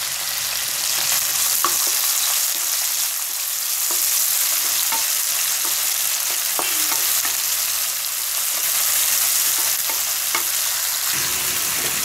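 Sliced onions sizzling as they fry in a pan of oil with whole spices, ginger, garlic and green chili: a steady high hiss. It is broken by occasional light clicks of stirring.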